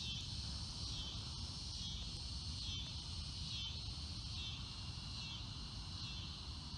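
Chorus of insects such as crickets: a steady high trill with a faint swell repeating a little more than once a second, over a low steady rumble.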